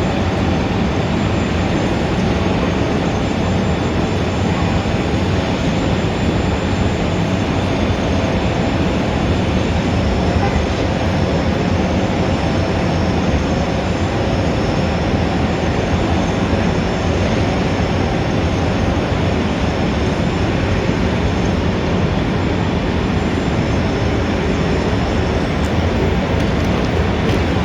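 Steady city traffic ambience: a dense, even wash of traffic noise with no single vehicle standing out.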